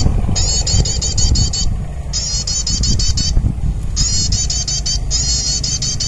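High, fast bird trill of rapidly repeated sweeping notes, coming in bursts of about a second separated by short pauses, over a steady low rumble.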